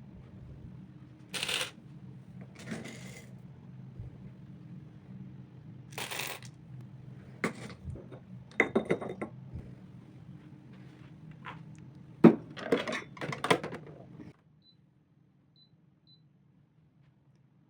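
Kitchenware being handled: a series of short clinks, knocks and scrapes, sharpest and loudest about twelve seconds in, over a low steady hum that cuts off suddenly about fourteen seconds in.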